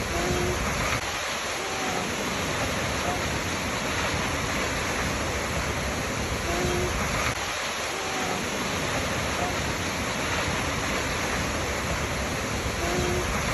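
Waterfall: a steady rush of falling water, with faint short pitched notes recurring every few seconds.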